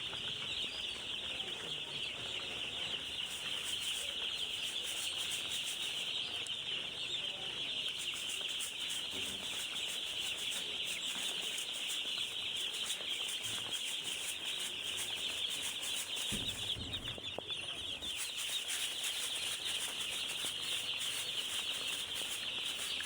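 A crowd of two-day-old chicks peeping continuously, many high calls overlapping without a break.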